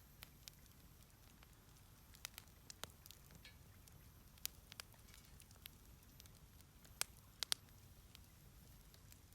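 Wood fire crackling in a fire pit: scattered sharp pops and snaps at irregular intervals, the loudest two close together about seven seconds in.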